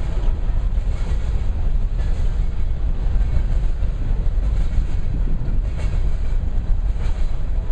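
Freight train rolling past, a steady low rumble of wheels on the rails.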